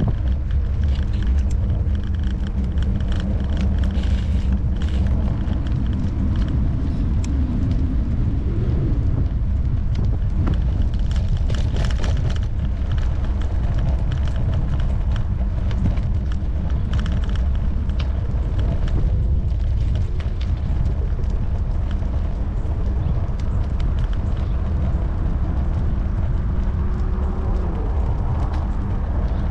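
Wind rumble on an action camera's microphone, mixed with road noise from a moving bike, steady throughout. There are a few short clicks and, near the end, a faint tone that rises and falls.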